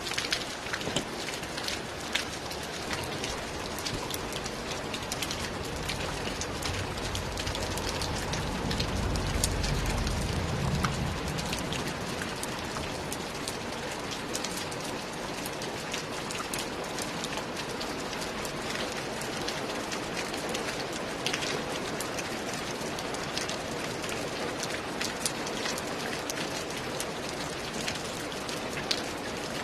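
Steady rain falling, with many individual drops ticking sharply through the hiss. A low rumble swells and fades about a quarter of the way in.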